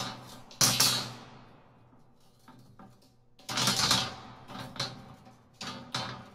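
A series of sharp crashing impacts with short rattling decays: two loud hits in the first second, a bigger one about three and a half seconds in, then several smaller hits.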